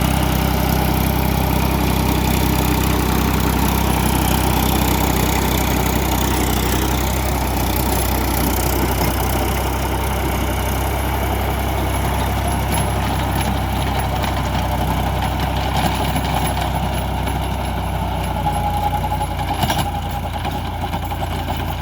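Tractor engine running steadily with a deep, even hum, easing off slightly near the end.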